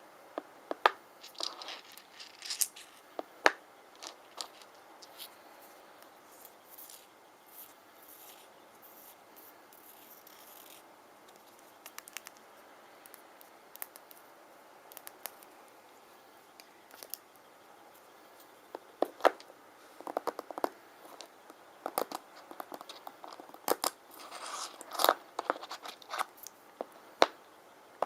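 Rune stones being handled: irregular sharp clicks and small knocks as they touch, with some scraping. The clicks are sparse at first, thin out in the middle with a soft scratching, and come in busier clusters in the last third.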